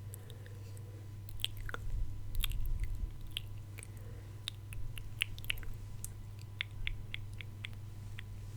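ASMR mouth sounds: sharp, wet clicks and smacks of the lips and tongue, scattered at first and then in a quick run in the middle.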